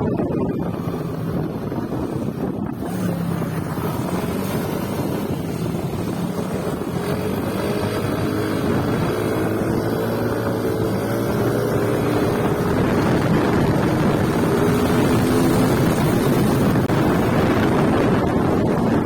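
Motorcycle engine running while riding, its pitch shifting a little with speed, with wind noise on the microphone.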